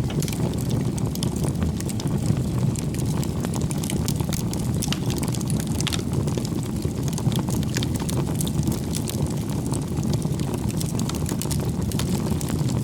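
Campfire burning: a steady low rush of flame with many small crackles and pops from burning firewood.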